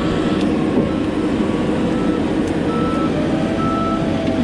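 Diesel engine of a knuckleboom log loader running steadily while it moves, with its travel alarm beeping repeatedly.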